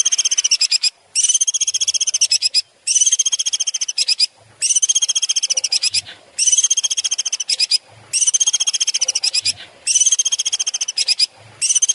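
A bird call played for song training: a loud, high, rapidly pulsed trill about a second and a half long, repeated over and over with short gaps between.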